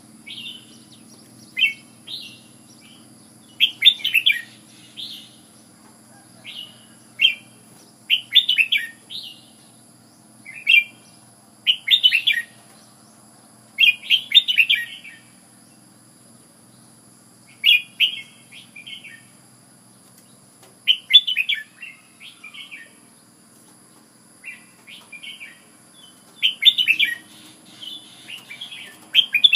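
Red-whiskered bulbul singing: short, quick whistled phrases repeated every second or two, with brief pauses between them.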